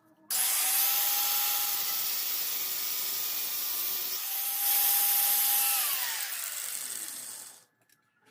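Electric power tool grinding or sanding a workpiece, starting suddenly with a harsh hiss over a steady motor whine. It eases briefly about four seconds in, then its whine drops in pitch near the end before it stops.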